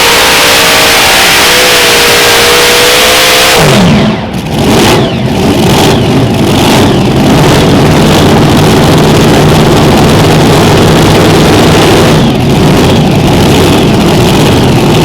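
Unlimited modified pulling tractor's engines running at full throttle with a high, steady note. About four seconds in the throttle comes off, the pitch drops sharply, and the engines carry on at a lower, rougher run.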